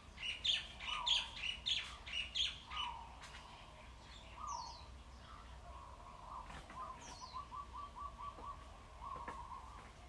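Small birds chirping and trilling, with short downslurred whistles and a quick run of repeated notes. Early on there are four short, sharp scratching strokes about half a second apart, the loudest sounds here.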